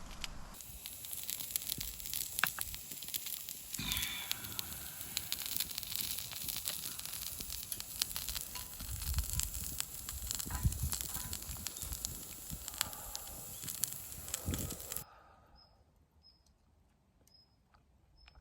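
Wood campfire crackling, with a steady hiss and frequent sharp pops. About fifteen seconds in it cuts off abruptly, leaving a much quieter background with a few faint high ticks.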